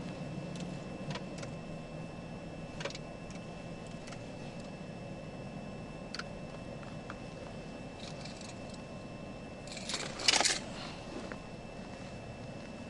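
A few faint clicks and handling noises over a steady low hum, with one short, louder rattle about ten seconds in.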